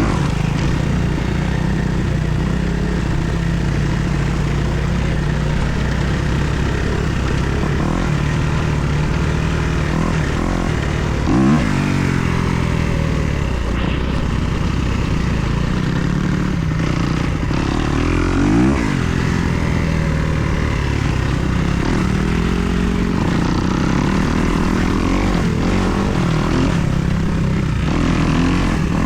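Kawasaki KX250 dirt bike's four-stroke single-cylinder engine running hard as it is ridden, the revs rising and falling with the throttle. Two sharper bursts of revs stand out, about a third and two-thirds of the way through.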